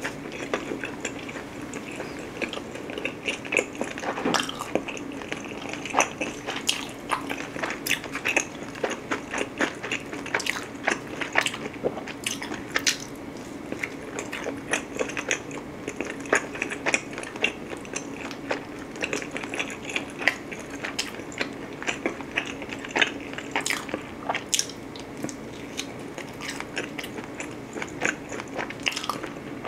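Close-miked chewing and biting of thin-crust pizza: a dense run of crisp crunches and small clicks from the crust being chewed.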